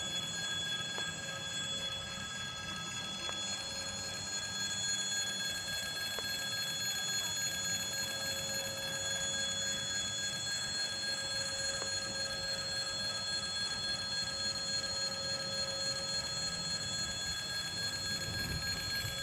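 A train at a railway level crossing: a steady low rumble with several constant high ringing tones over it.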